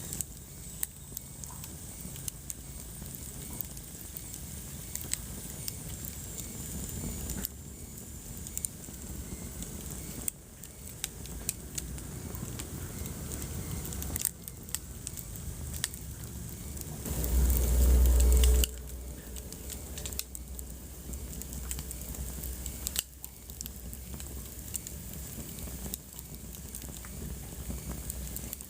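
Wood fire crackling in a fireplace: scattered sharp pops and snaps over a low steady rumble of the flames. About seventeen seconds in, a louder low rumble swells for about a second and a half, the loudest sound here, and cuts off suddenly.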